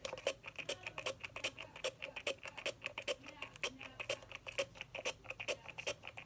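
A fragrance mist spray pump being pressed over and over in quick succession, about four or five short spritzes a second, each a brief click and hiss as the perfume is sprayed into a bottle of water.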